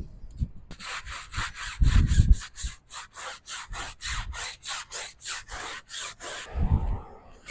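Stiff detailing brush scrubbing back and forth in quick even strokes, about four a second, stopping a second before the end, with a couple of dull thumps.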